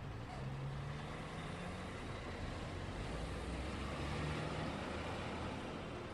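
Road traffic passing: a steady wash of tyre noise with the low hum of car and truck engines, swelling a little as a vehicle goes by.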